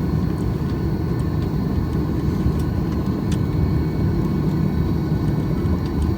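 Steady low rumble inside the passenger cabin of a Boeing 737-800 with its CFM56 jet engines running, with a few faint scattered ticks.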